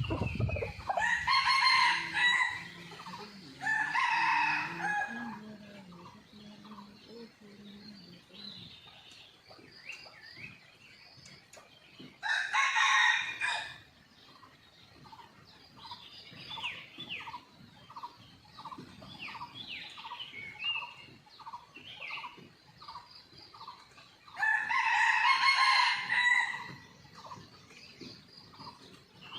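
Red junglefowl roosters crowing four times, each crow short, about one and a half to two seconds. Between the crows small birds chirp, and in the second half a bird gives an even run of short notes, about two a second.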